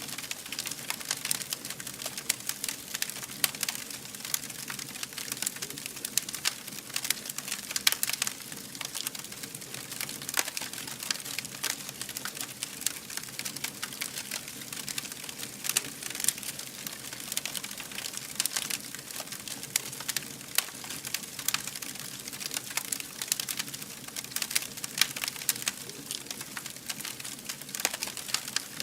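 A fire burning and crackling: dense, irregular pops and snaps over a steady hiss.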